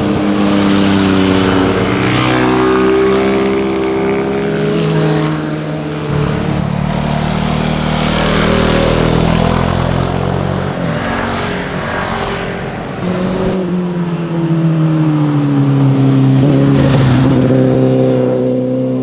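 Motorcycle engines passing one after another, their exhaust notes rising and falling in pitch as the riders accelerate and shift gears. The sound changes abruptly twice, once about six seconds in and again past the middle.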